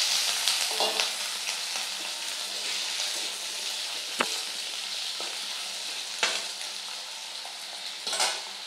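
Potato cubes sizzling as they fry in hot oil in a metal wok, a steady hiss that eases slightly toward the end, with a metal spatula clicking and scraping against the pan a few times.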